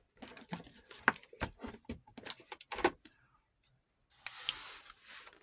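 Small hard parts of a vintage 8mm film machine clicking and rattling as they are handled while its lamp is worked out of its socket: a quick run of sharp clicks and knocks, then a brief rustle with one more click near the end.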